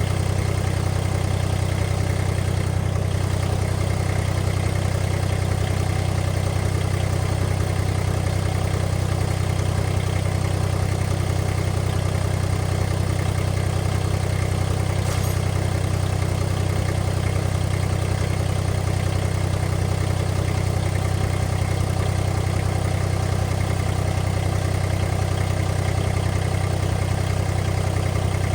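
An engine idling steadily at a constant speed, a low even hum with no change in revs.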